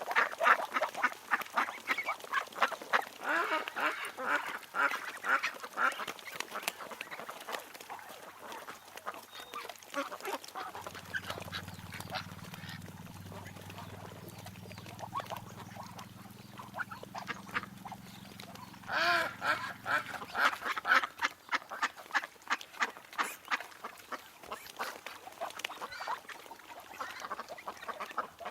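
Ducks quacking, many short calls in quick succession, thinning out in the middle while a steady low hum runs underneath, then a louder flurry of quacks about two-thirds of the way through.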